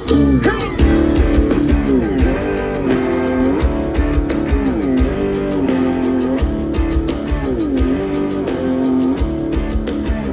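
Band music, an instrumental passage: a guitar plays a lead phrase with repeated string bends over drums and bass, coming in sharply as the organ part ends.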